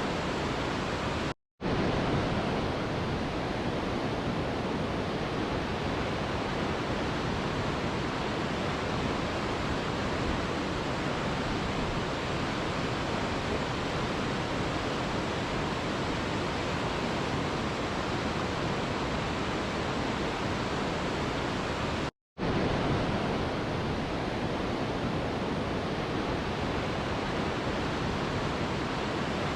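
Mountain river rushing: a steady, even wash of flowing water. It drops out to silence for a split second twice, about a second in and again about two-thirds of the way through.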